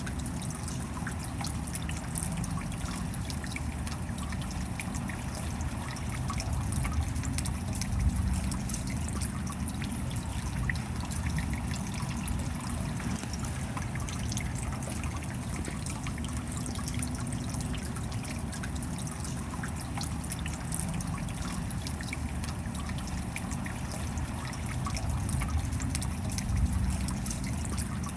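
Steady rain with water trickling and dripping: a dense patter of small drop ticks over a low rumble, with a slightly louder hit about eight seconds in.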